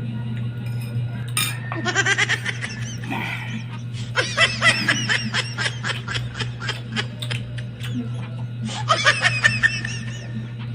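Three short bursts of laughter over a steady low hum, with a click about a second and a half in.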